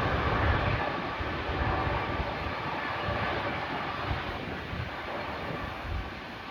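Jet airliner's engines running with a steady rushing noise and a faint whine, slowly fading.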